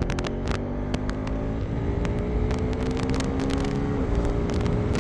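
KTM 390 Enduro R's single-cylinder engine pulling under way, its pitch slowly rising, then dropping about four seconds in as it shifts up a gear. Wind noise and buffeting over the microphone throughout.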